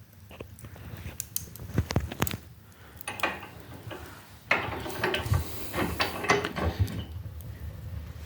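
Wood-burning fireplace stove: irregular sharp clicks and knocks, with a denser stretch of rustling noise about halfway through.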